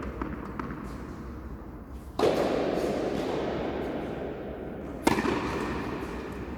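Two loud bangs about three seconds apart, each dying away slowly in a long, fading echo; during a doubles tennis match these fit balls hitting a hard surface close to the microphone.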